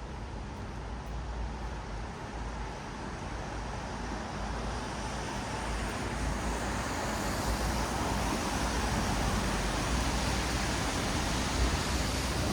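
Traffic on a wet city road: steady hiss of tyres on wet asphalt over a low rumble, growing louder in the second half as a vehicle draws closer.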